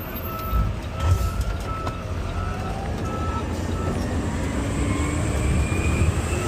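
Garbage truck's reverse alarm beeping repeatedly over the diesel engine's steady rumble, the beeps stopping a little over halfway through as the engine revs up with a rising pitch.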